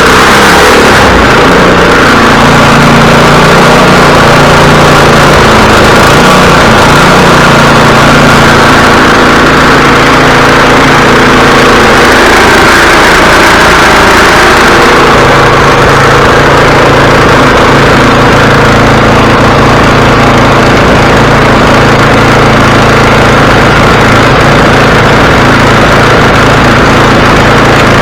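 Snow thrower's small gasoline engine running loud and steady, just started on a small splash of fuel added to get it going. Its pitch shifts slightly about fifteen seconds in.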